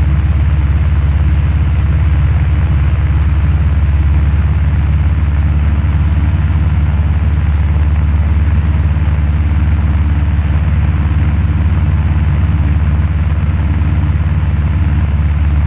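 Cessna 172 Skyhawk's piston engine and propeller droning steadily in flight, heard from inside the cabin.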